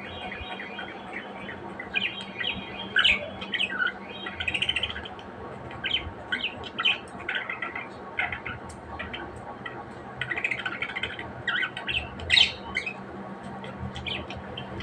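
Budgies chattering and chirping: a busy run of short squawks, chirps and warbles, a few louder sharp calls among them.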